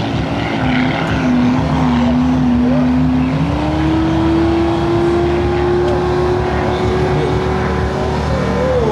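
Propeller aerobatic planes with Lycoming 540 piston engines running hard overhead. The engine and propeller drone wavers at first, then rises in pitch about a third of the way in and holds there.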